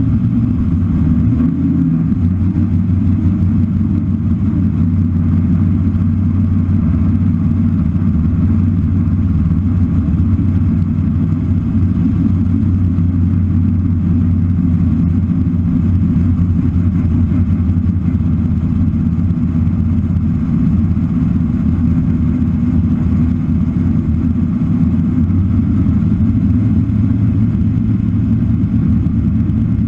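Chevrolet V8 of a naturally aspirated 1967 Camaro drag car running steadily at low speed, a deep, even rumble without revving.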